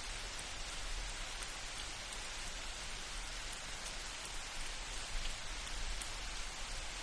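Steady rain falling in a forest, an even hiss with individual drops ticking here and there, over a low steady rumble.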